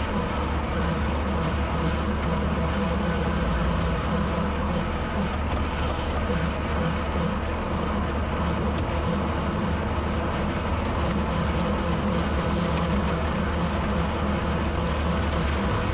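Tractor engine running steadily, driving a bush hog rotary cutter while mowing.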